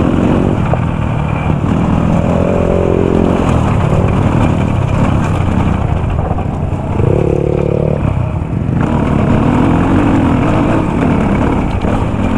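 Dirt bike engine running while being ridden, its pitch falling away about two seconds in and picking up again for a moment about seven seconds in as the throttle is worked.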